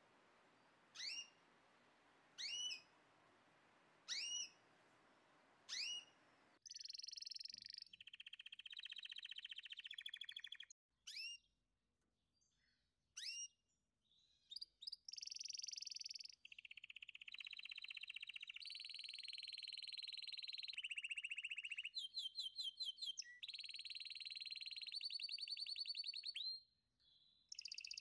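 Songbird singing, faint: first a falling chirp about every second and a half, then long rolling trills and buzzy phrases broken by a few single chirps, with a short pause near the end.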